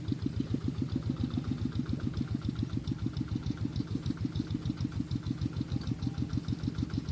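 Tractor engine running steadily at low speed, an even chugging of about eight to nine beats a second with a light tick on each beat.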